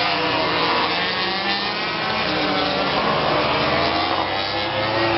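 Several motorcycle engines running at once, their overlapping pitches rising and falling as they rev.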